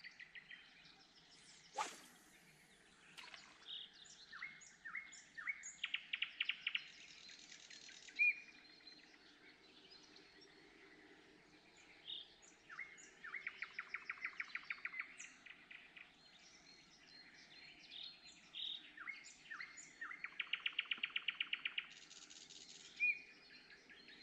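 Songbirds singing: a rapid trilled song phrase of about a second and a half comes three times, with scattered chirps and single whistled notes between. One short sharp click about two seconds in.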